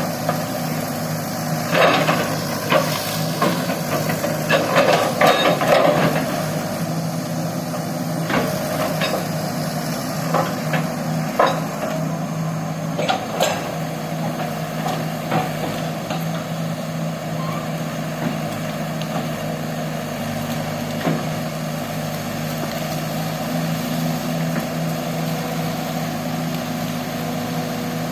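Excavator's diesel engine running steadily, with a series of sharp knocks and clangs in the first half, densest in the first six seconds, that thin out to a lone knock now and then.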